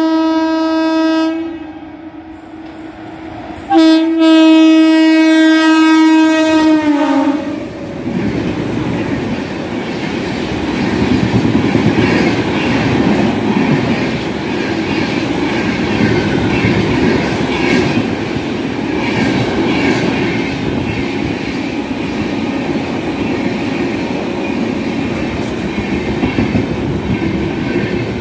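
Passing Indian Railways express train, the 12572 Gorakhpur Humsafar Express. The locomotive horn sounds in two long blasts, the second sliding down in pitch at its end as the locomotive goes by. Then comes a steady rush of coaches passing at speed, with the clickety-clack of wheels over rail joints.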